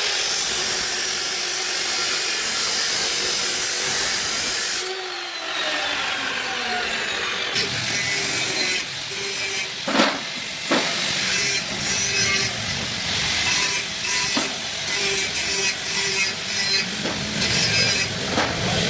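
Power tool, most like an angle grinder, working metal for about five seconds and then winding down with a falling whine. It is followed by shorter stop-start bursts of tool noise and two sharp knocks about ten seconds in.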